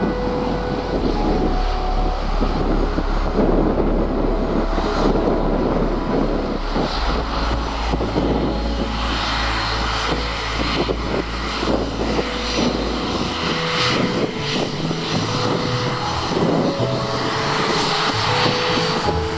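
De Havilland Canada Dash 8-300 turboprop landing, its two propeller engines running, with wind buffeting the microphone.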